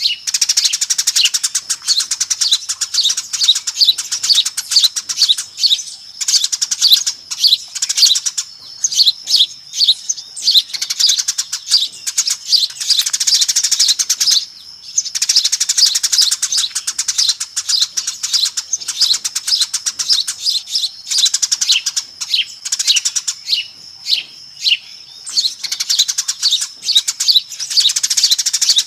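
Eurasian tree sparrows chirping and chattering in a loud, dense, continuous flurry of rapid high chirps, a sparrow lure call, with a brief pause about halfway through.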